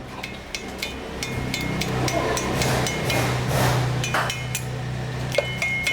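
Repeated light taps of metal on metal, each with a short bright ring, over a steady low hum.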